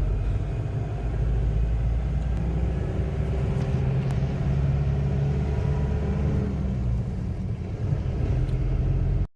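Motor vehicle on the move, a steady low rumble of engine and road noise that cuts off suddenly near the end.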